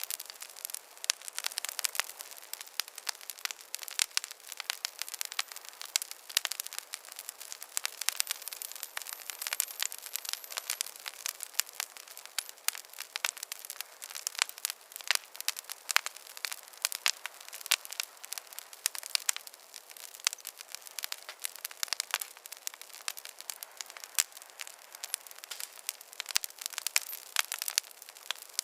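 Wood fire crackling in a fireplace: a dense, irregular stream of small pops and snaps over a soft hiss, with no low rumble.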